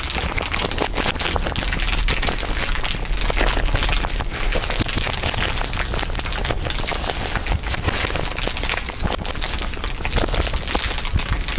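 Layered crinkling, many overlapping crinkles making a dense, continuous crackle, over a steady low rumble.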